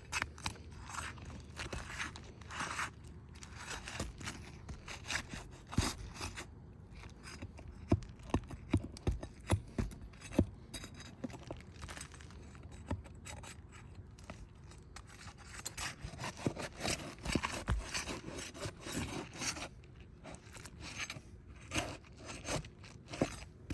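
Handling noise: scraping and rubbing with scattered sharp clicks and knocks, most dense a third to halfway through, as of hands working on an object.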